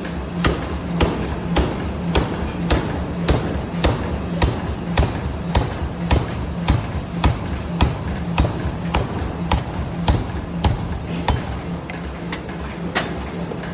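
Pneumatic forging hammer striking in a steady rhythm, nearly two blows a second, over a steady low machine hum.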